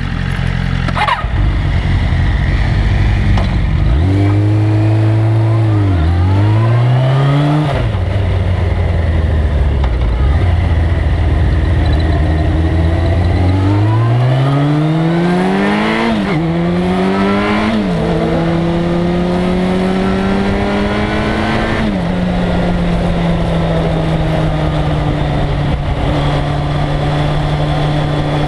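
1997 Suzuki GSX-R1100's inline-four engine accelerating through the gears. The pitch climbs and drops at each upshift, several times, with lower, steadier stretches in between, then settles to a steady note near the end.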